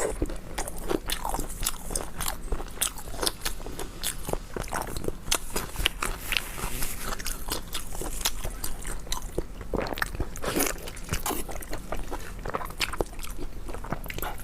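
Close-up eating of beef knee bone: biting and chewing with many sharp, irregular crunches of cartilage.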